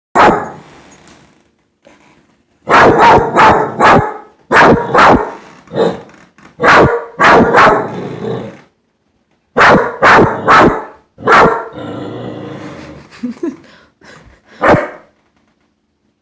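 A dog barking loudly and repeatedly in clusters of two to four sharp barks, with short pauses between; the barking stops about a second before the end.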